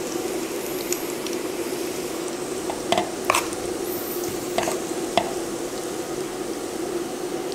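Vegetable pakoras in chickpea-flour batter deep-frying in a pan of hot oil, a steady sizzle, with four sharp clinks of metal spoons against a steel bowl around the middle.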